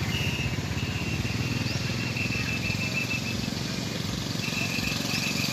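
A motor runs steadily with a low, fast-pulsing rumble, while a high steady tone sounds over it in short repeated stretches.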